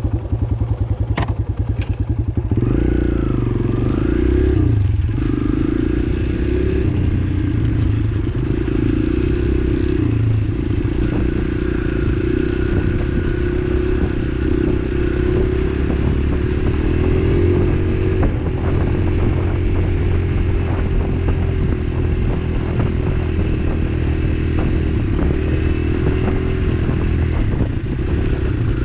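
Dirt bike engine running as the bike is ridden, pulsing slowly for the first couple of seconds, then held at a steady drone with its pitch dipping and rising a few seconds in. Scattered clatter and knocks run along with it.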